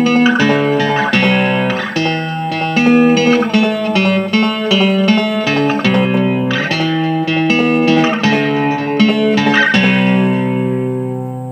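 Instrumental break of a song: guitar playing a run of chords and picked notes, with no singing.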